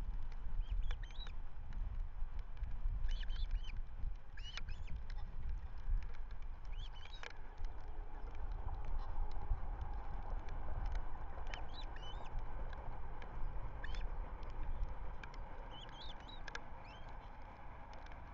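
Wind rumbling on an outdoor microphone, with short, high bird calls in small clusters every few seconds.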